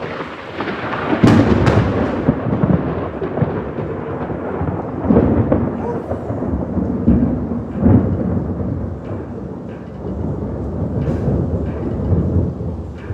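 Thunder: a sharp crack about a second in, then a long rolling rumble that swells several more times.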